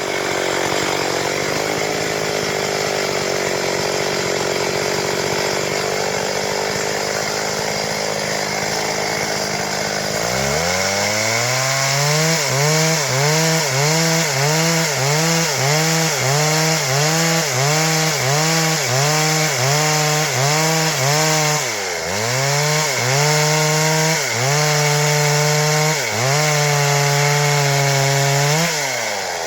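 Stihl MS 382 two-stroke chainsaw running at high revs while sawing wood. The pitch holds steady for the first ten seconds or so, then dips and climbs and goes on wavering up and down about one and a half times a second, with two sharp drops near the end.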